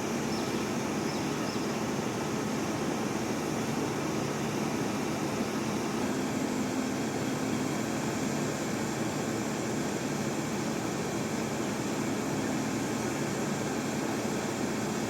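Steady, even drone of a heavy machine's engine running at a constant pace, with no sudden knocks or changes.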